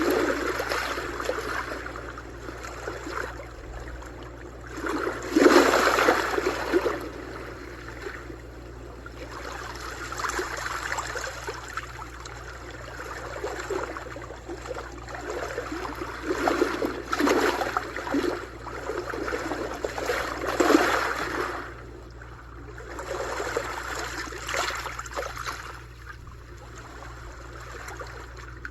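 Sea waves washing in and out, a hiss of water that swells and fades every few seconds, with the biggest surges about six seconds in and again about twenty seconds in.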